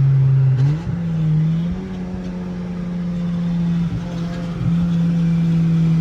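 Turbocharged Honda Civic engine running while driving, heard from inside the car: a steady drone whose pitch rises about a second in and then holds, with two brief dips near the end.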